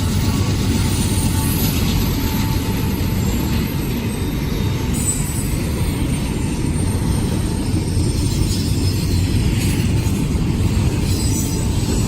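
Intermodal freight train rolling past, a steady rumble of wheels on the rails that holds level throughout.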